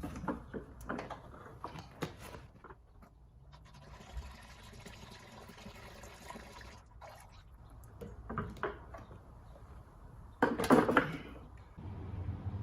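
Used engine oil running out of a lawnmower engine into a pan, a steady pour for a few seconds among small clicks and handling knocks. A louder clatter comes near the end.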